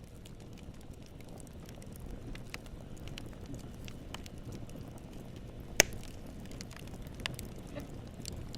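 Wood fire burning: a low steady rush from the flames with scattered crackles and snaps as the wood pops, and one loud sharp pop about two-thirds of the way through.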